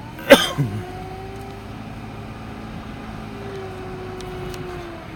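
Steady hum of a car running, with a sudden loud short sound falling in pitch about a third of a second in, followed by a smaller one.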